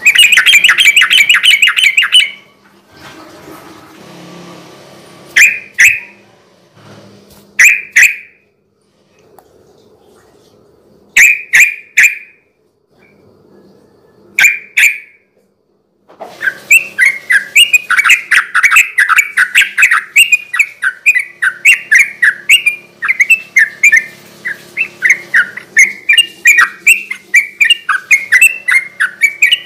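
Yellow-vented bulbul (trucukan) singing. A fast burst of chattering notes opens it, then a few short calls a couple of seconds apart, and from about halfway a long, rapid run of bubbly notes.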